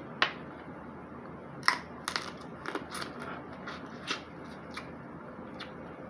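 Snow crab leg shells being cracked and snapped apart: a string of sharp cracks and clicks at uneven intervals.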